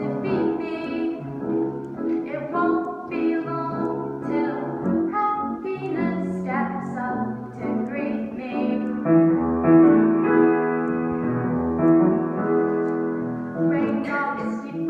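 Piano music with a held melody line over it, playing continuously.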